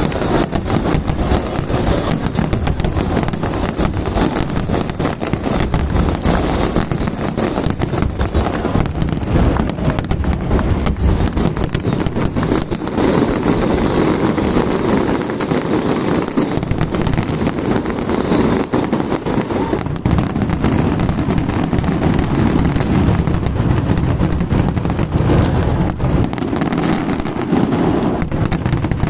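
Aerial fireworks going off in a dense, continuous barrage of bangs and crackles, one on top of another.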